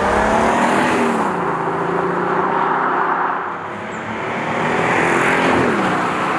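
Audi S5 Sportback's 3.0 V6 turbo-diesel accelerating hard, its engine note dropping about a second in, climbing steadily, then dropping again near the end as it shifts up.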